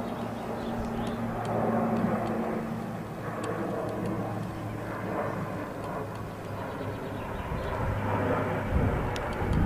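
A steady low engine drone with general outdoor background noise.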